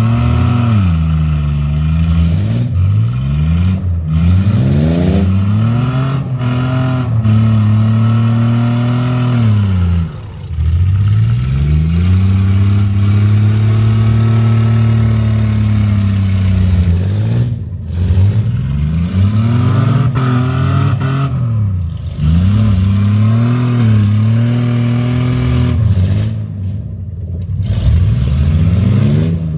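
A car engine revving hard again and again, its pitch climbing and falling every couple of seconds. It holds one longer steady high run in the middle and drops off sharply twice.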